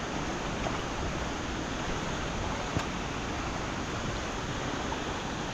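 Steady rushing noise of heavy rain outdoors, with one faint click a little past the middle.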